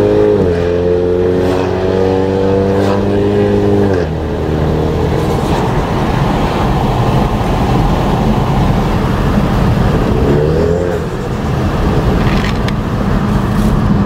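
Ford Mustang's engine heard from inside the cabin while accelerating with its automatic gearbox: the engine note rises, steps down at an upshift about half a second in, climbs again and drops off near four seconds, then settles into a steady cruise with road noise. A short rise in engine pitch comes again around ten seconds in.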